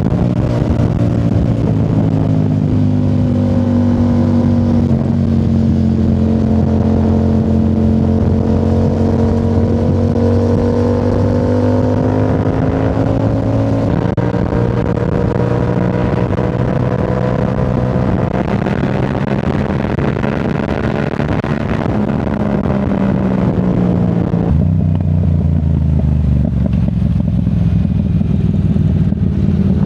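Yamaha R7's parallel-twin engine through a Yoshimura AT2 full exhaust, riding under steady throttle with the engine note slowly rising and falling. Near the end the note drops lower and duller as the throttle eases off.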